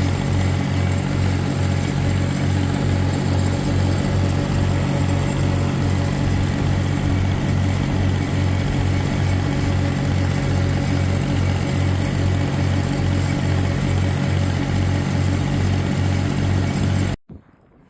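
Tractor engine running steadily under load with a low throb that pulses about twice a second, cutting off suddenly near the end.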